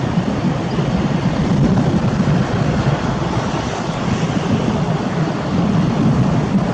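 Airbus A321-211 airliner's CFM56 turbofan engines running, heard as a loud, steady rushing jet noise, heaviest in the low range.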